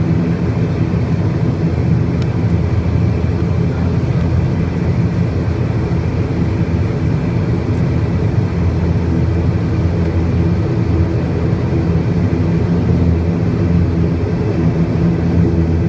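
Heavy engines running in a steady low drone, with a hum of several even pitches and no change in level.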